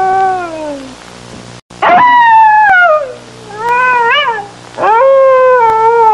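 Red fox calling: a series of drawn-out, high-pitched yelping howls, each falling in pitch, with short pauses between them. A shorter call near the middle wavers upward before dropping.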